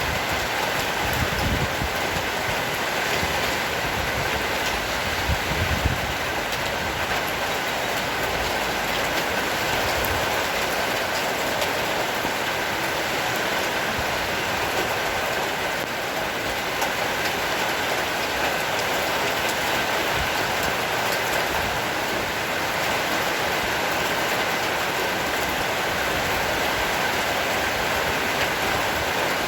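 Heavy rain shower falling steadily, an even hiss of rain, with a few low thumps in the first six seconds.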